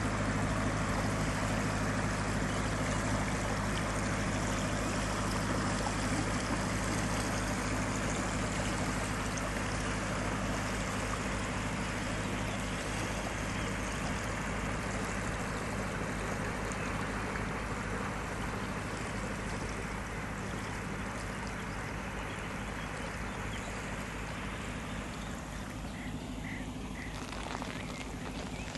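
Passenger boat's engine running with a steady low hum over a constant rushing noise, slowly fading as the boat moves away.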